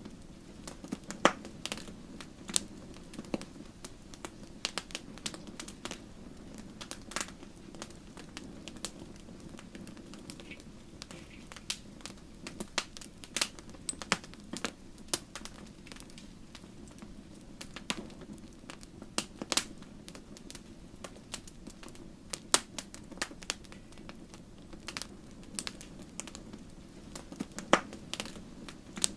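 Wood fire burning in a fireplace: logs crackling with irregular sharp pops and snaps over a steady low rumble of flames.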